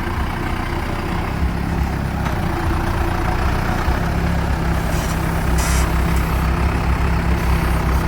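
Farm tractor engine running steadily while it lifts hay bales onto a flatbed trailer, with a low rumble; the engine note settles higher and steadier about four seconds in.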